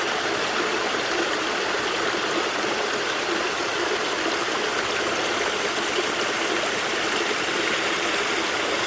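Fast-flowing mountain stream water rushing steadily, a loud, even hiss.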